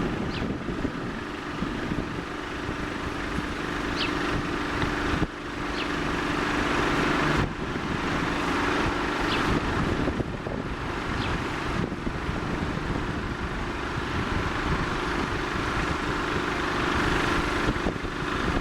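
Jet airliner engines running steadily, with wind noise on the microphone. The sound changes abruptly about five seconds in and again a couple of seconds later.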